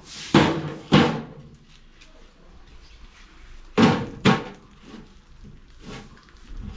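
Four heavy knocks on a cutting board, in two pairs about three seconds apart, each pair half a second apart.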